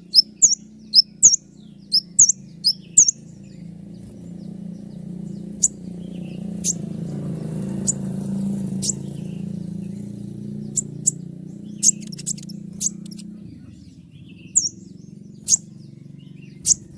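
Kolibri ninja (Van Hasselt's sunbird) calling sharp, high 'shot' notes: a quick run of about two a second over the first three seconds, then scattered single notes. Under them a low steady drone swells and fades, stopping about 13 seconds in.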